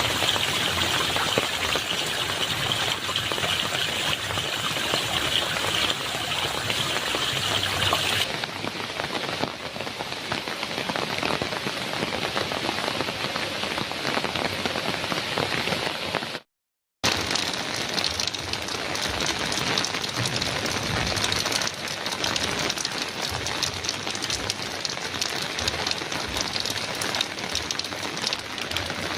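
Heavy rain pouring steadily on a metal roof, an even hiss of many drops. The sound shifts in tone about a third of the way in, then cuts out completely for about half a second a little past halfway before resuming.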